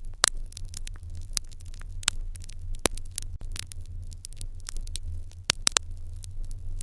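Wood fire crackling in an irori hearth: irregular sharp pops over a steady low rumble, with a quick run of several pops late on.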